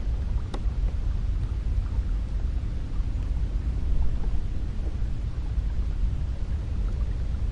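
Cold wind blowing steadily, a deep low rumble that swells and eases slightly.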